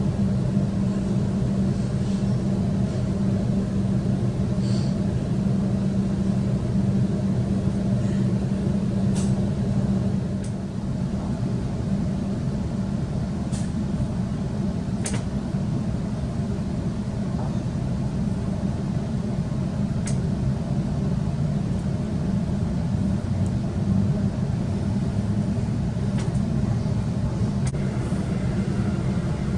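Inside the carriage of a Sydney Trains double-deck electric suburban train as it pulls out of a station and gathers speed. A steady electric hum sits over the running rumble, and the hum weakens about a third of the way in. A few sharp clicks come through along the way.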